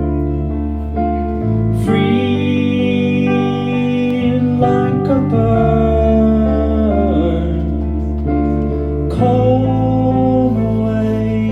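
A live band playing: held guitar and keyboard chords over a steady bass line that changes every few seconds, with a cymbal crash about two seconds in and another near the end.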